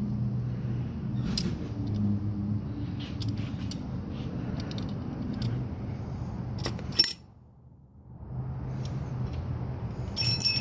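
Metal tools and engine parts clinking during the teardown of an engine with a spun crank bearing, over a steady low hum. The sound drops away briefly about two-thirds of the way through, and a cluster of ringing metallic clinks comes near the end.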